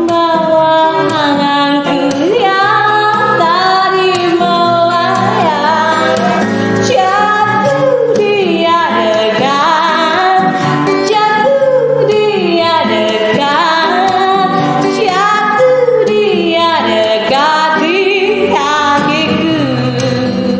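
A woman singing a slow melody in Indonesian over a steady instrumental backing.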